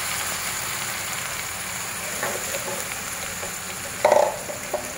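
Fish heads and bones cooking in oil with freshly added water in a wok, giving a steady sizzling and bubbling. A brief louder sound comes about four seconds in.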